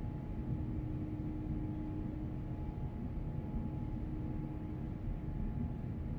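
Airbus A350-900 cabin noise from a window seat after takeoff: a steady rumble of engines and airflow with a constant low hum.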